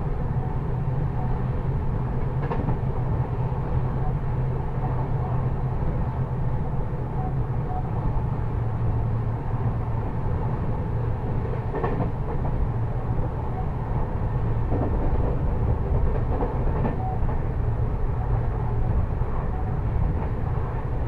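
Train running: a steady low rumble with a few faint clicks spread through it.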